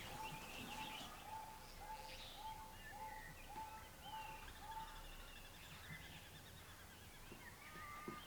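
Birds calling faintly: one repeats a short note about twice a second until about halfway through, while others chirp higher and irregularly.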